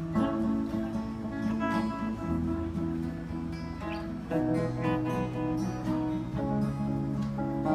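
Guitar playing chords, the notes ringing on and changing every second or so.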